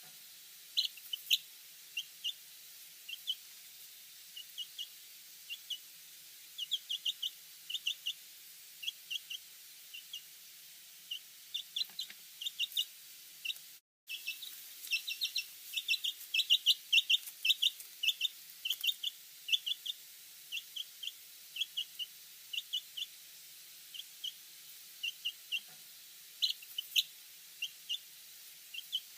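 Baby chicks peeping: many short, high cheeps in quick irregular runs, with a brief silent break about fourteen seconds in.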